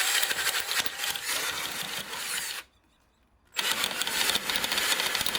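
Power drill running in two long bursts with a pause of about a second between them.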